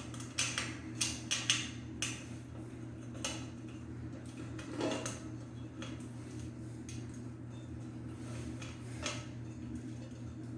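Scattered light clinks and taps of small metal and glass parts being handled on a ceiling fan's light fitting, thickest in the first couple of seconds, over a steady low hum.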